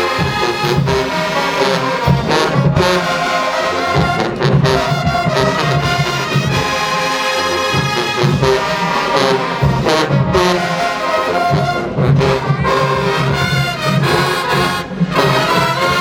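Marching band playing loudly, with brass (trombones and trumpets) carrying the tune over drum hits.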